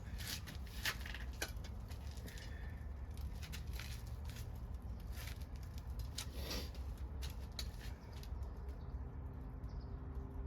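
Scrap-wood fire crackling: irregular sharp pops and snaps over a low steady rumble.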